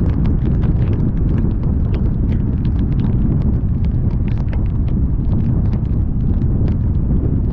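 Driving in heavy rain: a steady low rumble of road and wind noise, with frequent sharp, irregular ticks of raindrops striking close to the microphone.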